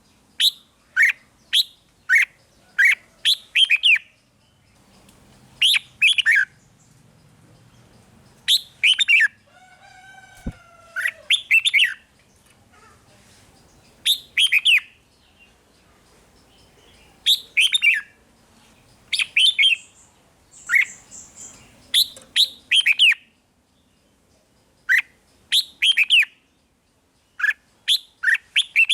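Red-whiskered bulbul singing: quick phrases of two to four short, sharp whistled notes that drop in pitch, repeated with short pauses between them. About ten seconds in comes a single different rising call.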